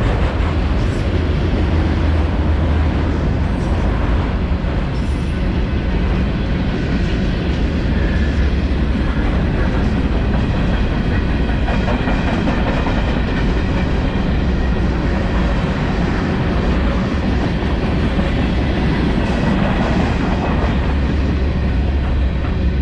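Freight train rolling past, a steady low rumble of wheels on the rails.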